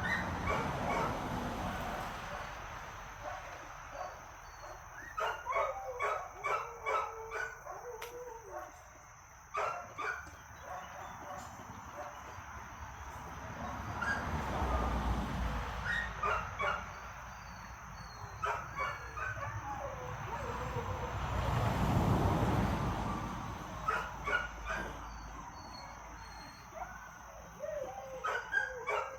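Dogs barking and yipping in short clusters during play. A low rumble swells and fades twice.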